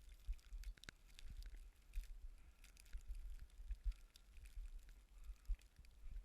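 Storm wind buffeting the microphone in an uneven low rumble, with faint scattered crackling ticks throughout.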